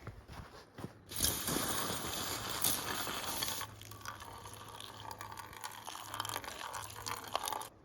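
Hot chocolate being poured into a cup: a loud hiss of pouring liquid for about two and a half seconds, then a weaker trickle that stops just before the end.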